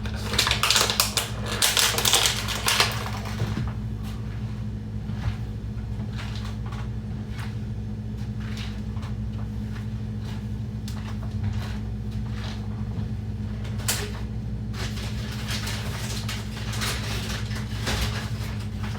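Plastic water bottles crinkled in the hands: a dense crackling bout at the start, scattered clicks in the middle and another bout near the end, over a steady low hum.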